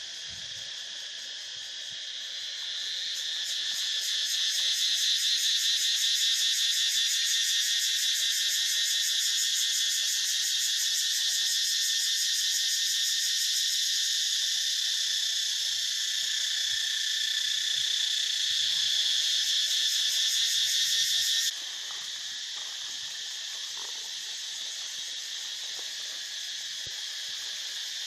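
A dense, high, rapidly pulsing insect chorus, such as cicadas or crickets. It swells louder a few seconds in, then drops sharply to a quieter level about three-quarters of the way through.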